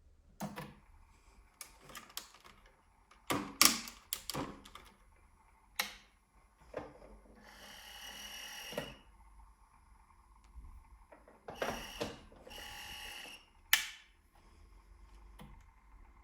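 Clicks, taps and knocks of parts and tools being handled on a Bernina 1230 sewing machine under repair, with two short stretches of steady noise about eight and thirteen seconds in.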